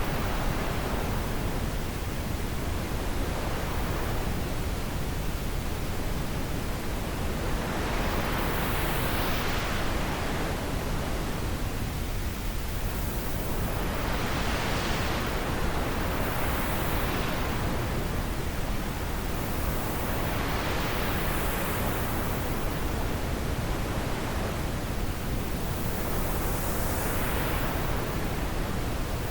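Wind blowing as a steady rushing noise, swelling and easing in gusts every few seconds.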